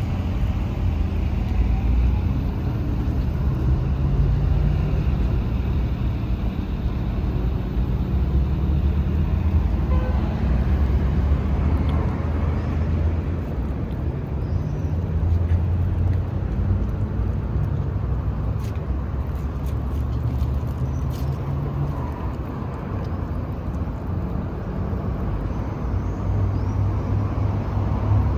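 Steady low rumble of a motor vehicle engine running nearby, its pitch shifting slightly now and then, with road-traffic noise behind it.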